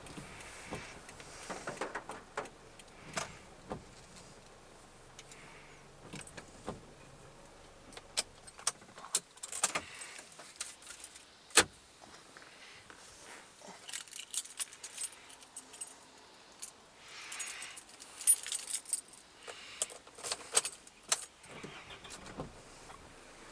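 A bunch of keys jangling with scattered sharp clicks and knocks, the jingling heaviest in the second half.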